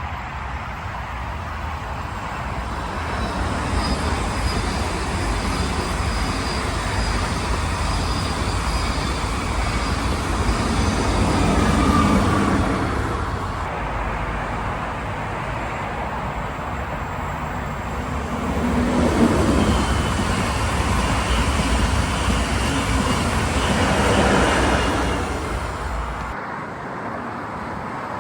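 Electric trains passing at speed: an SBB Re 460 locomotive hauling IC2000 double-deck coaches, then, after a cut about halfway, another Re 460 hauling EW IV coaches. Steady wheel-on-rail running noise swells as each train goes by, with a faint high whine over it.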